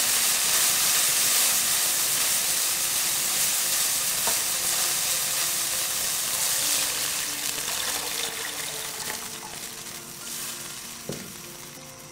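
Minced meat sizzling in a hot nonstick pan, the sizzle steadily dying away toward the end, with a couple of light knocks along the way.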